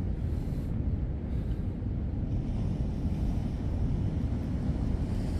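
Steady low wind rumble on the microphone, with no distinct events.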